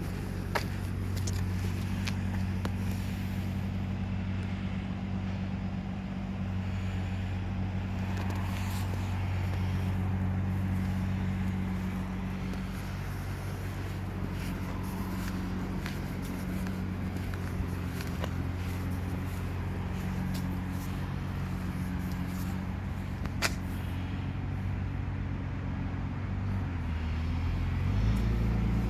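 Steady low hum of an idling vehicle, with a few sharp clicks; the hum changes and grows louder near the end.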